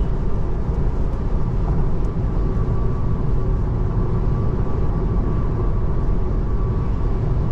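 Steady road and tyre noise inside the cabin of a 2024 Tesla Model 3 driving on a wet road, with a faint steady high whine under it.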